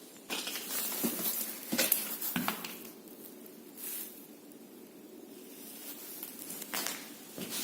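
Footsteps with rustling, a few sharper steps in the first two and a half seconds, then quieter shuffling.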